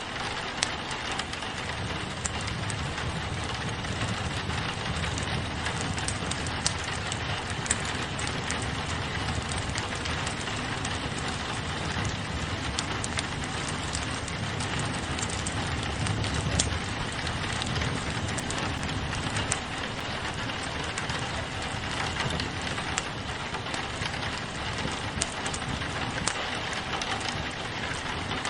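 Steady rain pattering on a window, mixed with a wood fire burning in a fireplace, with scattered sharp crackles and pops.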